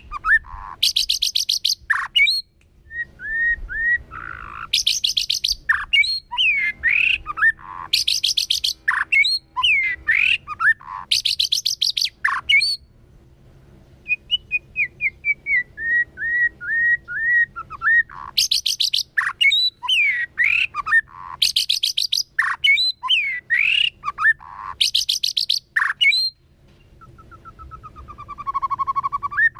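White-rumped shama singing a varied song. Clear whistled phrases and quick gliding notes are broken by harsh rattling bursts, with a run of quick repeated notes about halfway through and a buzzy drawn-out phrase near the end.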